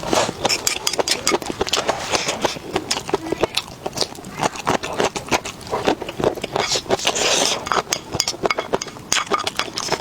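Close-miked eating sounds: a fast, irregular run of wet chewing clicks and mouth smacks.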